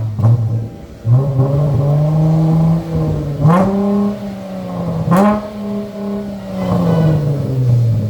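Chrysler 300S engine breathing through new SLP Loudmouth mufflers, just started and being revved: it holds a raised idle, is blipped sharply twice about three and a half and five seconds in, then settles back down toward idle near the end.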